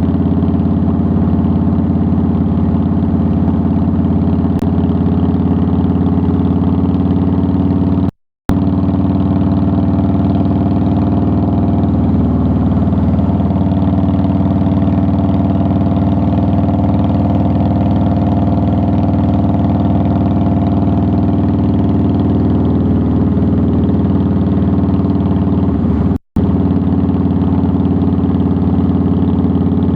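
2009 Harley-Davidson Softail Deluxe's V-twin engine idling steadily. The sound cuts to silence twice for a split second, about eight seconds in and near the end.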